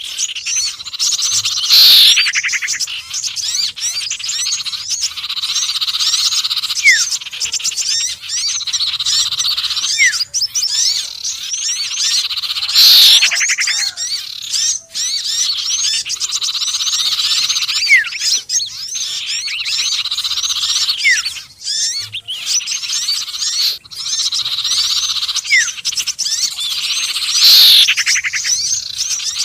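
Looped bird-lure recording mixing sirtu, konin and sepah raja calls: dense high chirping and trilling throughout, with a loud falling call three times.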